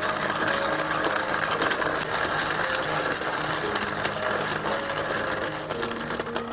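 A steady mechanical whirring-rattling noise under background music, starting just before and cutting off just after.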